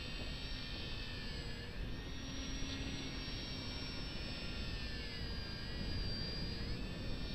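Electric motor and propeller of a ParkZone VisionAire RC plane whining in flight, the pitch dipping and rising again a few times as the throttle changes. Gusty wind rumbles on the microphone underneath.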